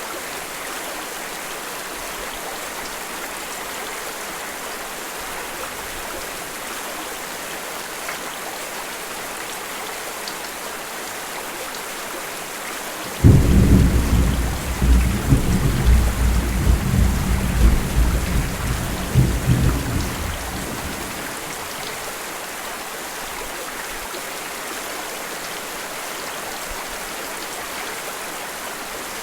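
Steady rain hissing, with a thunderclap a little under halfway through that breaks in suddenly, rumbles low for several seconds and then fades.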